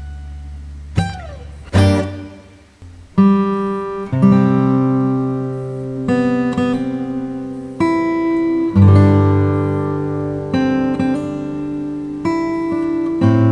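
Guitar music: plucked notes and chords struck every second or so and left to ring, with one note sliding down in pitch about a second in.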